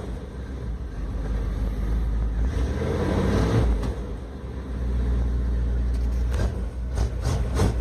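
318 V8 of a 1989 Dodge Power Ram running steadily, warming up from a cold start, through a glass-pack muffler. The sound swells briefly about three seconds in, and a few short knocks come near the end.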